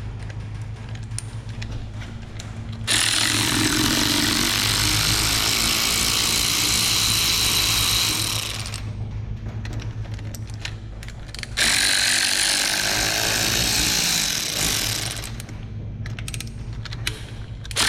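Power tool running in two long bursts, about five and three seconds, loosening bolts during an engine teardown. Short clicks come between and after the bursts.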